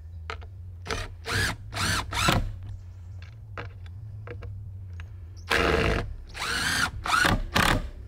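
Cordless drill driving screws into wood, the motor revving up and down in a series of short bursts over a steady low hum.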